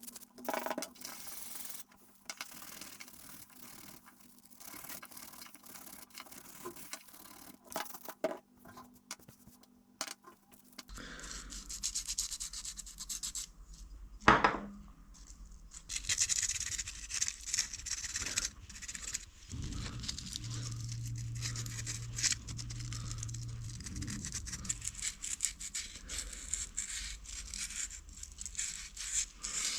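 Hand rubbing and scraping as soot is cleaned off a two-stroke brushcutter piston and its ring grooves. There is one sharp knock about halfway through and a short low hum a little later.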